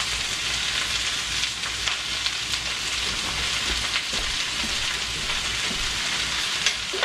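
Sliced cabbage and onions frying in bacon grease in a skillet: a steady sizzling hiss, with a few light clicks and scrapes from a spatula stirring the pan.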